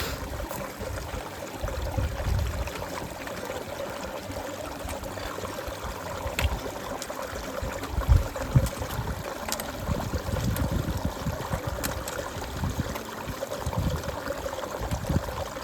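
A shallow stream running and gurgling over rocks, steady throughout, with irregular low rumbles mixed in and a louder bump about eight seconds in.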